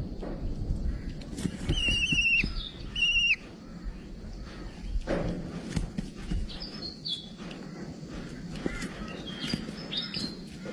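A bird calling: two short, wavering calls about two and three seconds in, then a few thinner, higher calls later, over a low steady background noise.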